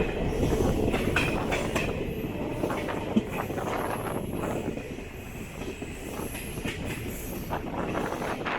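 DEMU diesel train running along the track, heard from on board: a steady rumble of wheels on rail with scattered clicks and a faint high squeal.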